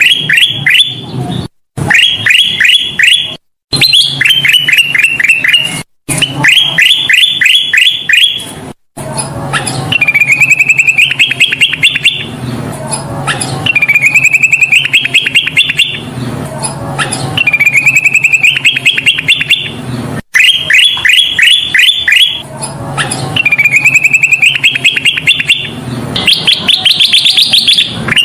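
A kutilang emas songbird singing loudly and without pause: phrase after phrase, each a quick trill of sharp repeated notes about every two seconds, some level or falling and later ones rising in pitch, over a low hum.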